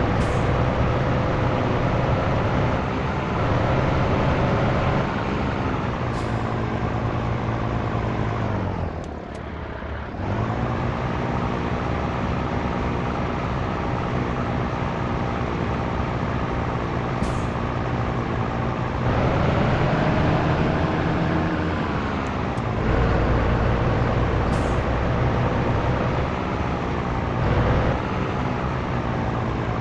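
Scania truck's diesel engine running under way, its revs climbing, dropping sharply and climbing again several times through the gear changes, with a sharp dip about a third of the way in. A few very short hisses of air come through now and then.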